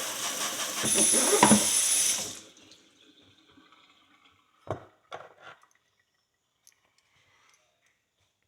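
Water running from a tap, growing louder about a second in and shut off a little after two seconds, likely rinsing the horseshoe. A few light knocks follow about two seconds later.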